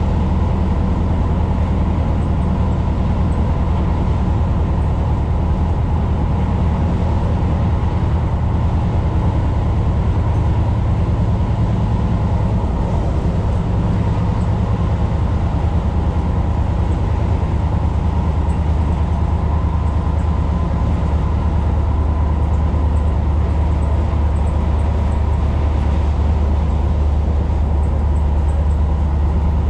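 Tyne & Wear Metro-Cammell Metrocar running along the line, heard inside the passenger car: a steady, loud low rumble of the train on the track, with a faint steady higher tone over it.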